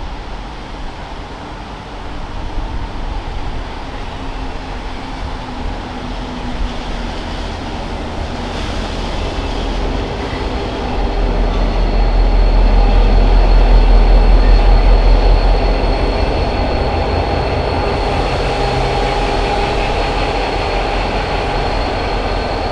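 Diesel-hauled freight train passing. The locomotives' rumble builds to its loudest about halfway through, then the wagons roll by with a thin, steady high wheel squeal.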